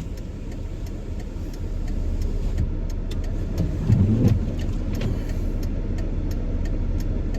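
A car running with a steady low rumble that grows a little louder over the first two seconds, with a brief louder low sound about four seconds in.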